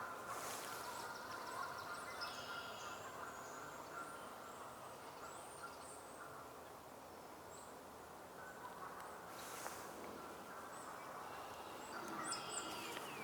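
Faint woodland bird calls: several short, high chirps and a few nasal-sounding notes scattered through, over a steady low outdoor background. Two brief high hissing rushes of noise, about half a second in and again about nine and a half seconds in.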